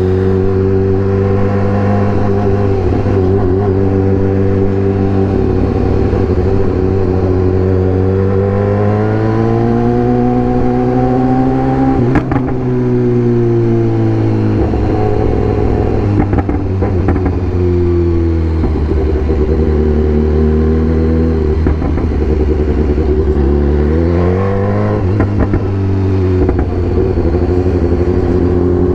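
BMW S1000R's inline-four engine running at low city revs, heard from the rider's seat while riding. The revs climb about a third of the way in, ease back off, and pick up again a few seconds before the end, with light wind noise throughout.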